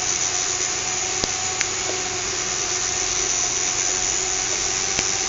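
Small fischertechnik electric motor driving the monorail carriage's propeller, running with a steady whir and a few faint clicks.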